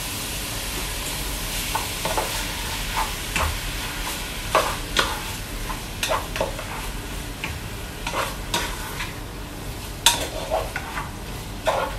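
Diced pork sizzling as it sautés in a pot, stirred with a cooking spoon that scrapes and knocks against the pot in irregular strokes over a steady frying hiss.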